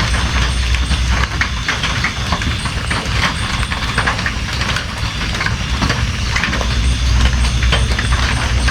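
Steady rain with many individual drops striking a surface in an irregular patter, over a constant low rumble.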